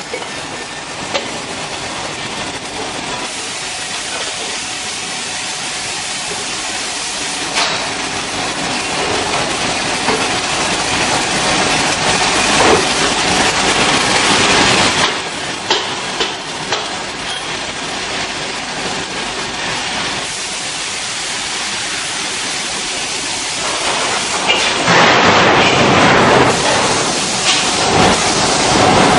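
Production-line machinery running with a steady hiss and occasional clicks and knocks; it grows louder about 25 seconds in.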